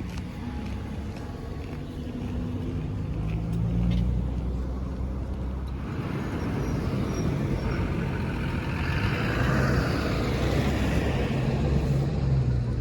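A motor vehicle passing on a street: a low engine hum throughout, with engine and tyre noise swelling from about six seconds in, loudest near ten seconds, then easing.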